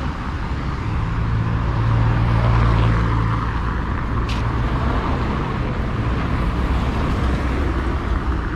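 Street traffic: a motor vehicle's engine hum swells and fades as it passes, between about one and three and a half seconds in, over steady road noise. A short sharp click about four seconds in.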